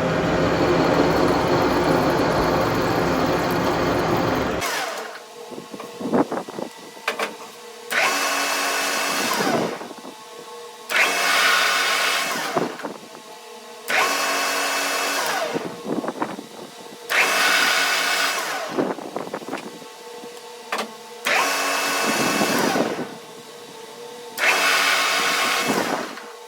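Electric power tool motor: a steady run that stops about four and a half seconds in, then six short bursts of a second or two each, about every three seconds, each winding down with a falling whine after release.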